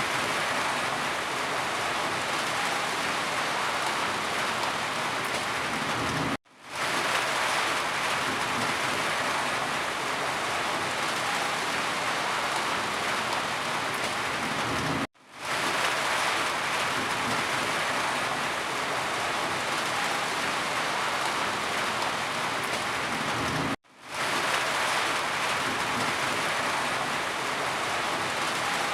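Steady heavy rain falling, an even dense hiss. It is broken three times, about every nine seconds, by a brief drop to silence that fades quickly back in.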